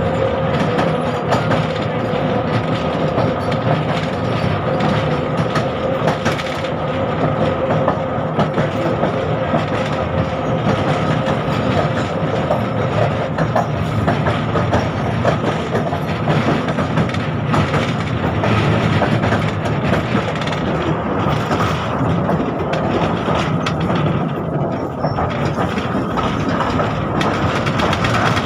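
A 71-605 (KTM-5M3) tram running along the track: steady wheel-on-rail noise with a constant tone and light clicking, and a lower tone that fades out about halfway through.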